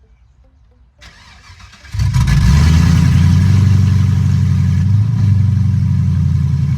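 LS-swapped box Chevy's V8 engine starting: a brief faint cranking, then it catches about two seconds in and runs loud and steady.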